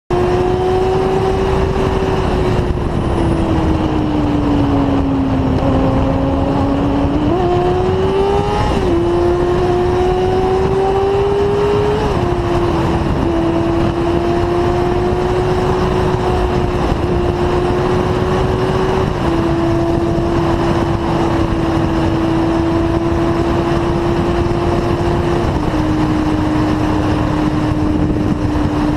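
Motorcycle engine running at high speed. Its drone holds a fairly steady pitch, rising gently and then stepping abruptly several times as gears change, over a steady rushing noise.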